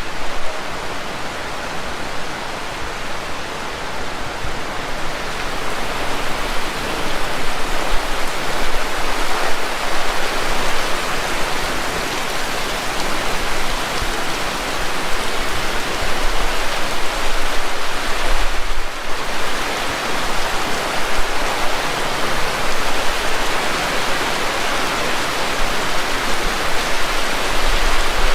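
Heavy tropical rain pouring steadily, a dense, even hiss of falling water that eases for a moment about two-thirds of the way through.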